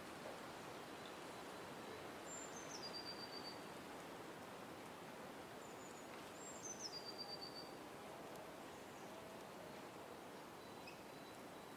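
A small songbird calling twice over a faint steady outdoor hiss. Each call is a high note that drops in steps into a short, even trill, the second call coming about four seconds after the first.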